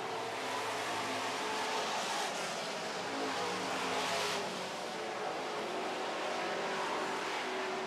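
Engines of a field of dirt-track super trucks racing at full throttle, a steady, continuous engine noise that swells as trucks pass close, about two to four seconds in.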